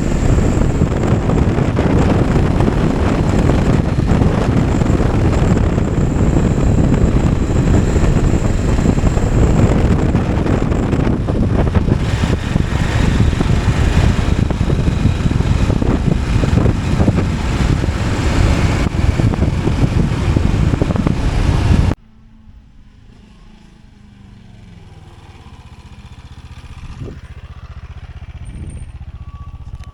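Loud rush of wind buffeting the microphone, mixed with motorcycle engine and road noise while riding. About two-thirds of the way in it cuts off abruptly to a much quieter motorcycle engine, which grows louder toward the end.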